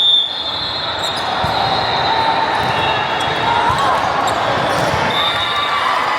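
Volleyball game sounds in a gym: a ball being struck and bouncing, with short high squeaks and a steady bed of players' and onlookers' voices.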